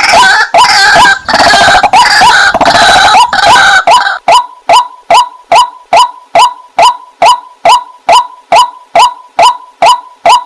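Waterhen calling: about four seconds of loud, overlapping croaking calls, then a steady run of short, identical notes repeated a little over twice a second.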